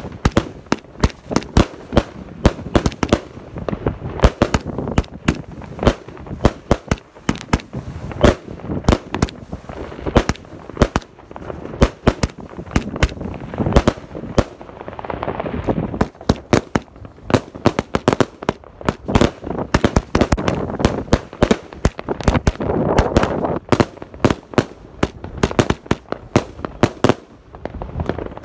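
'Patriot' consumer firework firing aerial shots: a dense, irregular string of sharp bangs, several a second, as shells launch and burst.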